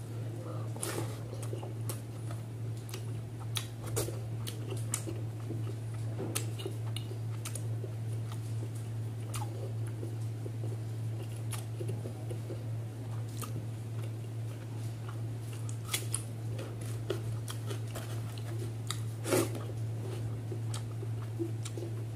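Close-up eating sounds: wet chewing, lip smacks and the fingers squishing rice and catfish curry on a plate, heard as scattered sticky clicks, one louder than the rest near the end. A steady low hum runs underneath.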